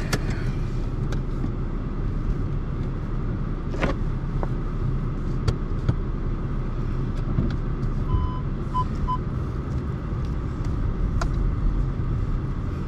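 Car engine running, heard from inside the cabin as a steady low hum, with occasional clicks and knocks. About eight seconds in, a short electronic tone and two quick beeps.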